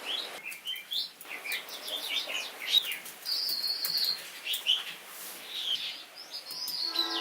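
Small birds chirping and twittering in quick, repeated sliding calls over a steady soft hiss. Sustained music notes come in near the end.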